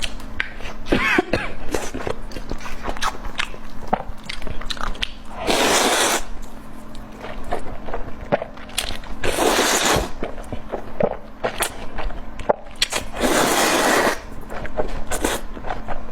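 Close-up chewing and biting of a braised chicken drumstick: many quick wet clicks and smacks, with three longer hissy rushes of about a second each, about four seconds apart.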